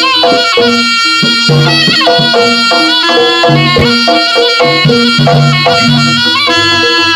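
Jaranan ensemble music played live: a reedy wind instrument carries a wavering, ornamented melody over a steady pattern of drums and pitched gong-chime notes.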